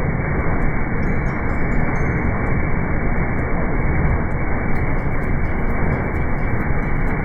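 Maxxi Bimo 102 rice combine harvester running steadily, a loud, even machine noise without clear pitch.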